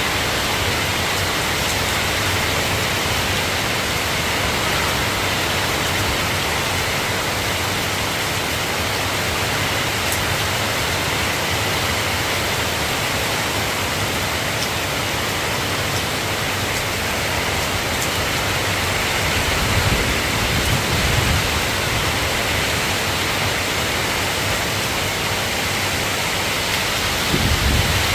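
Steady rain falling, an even hiss, with a few brief low rumbles about two-thirds of the way through and again near the end.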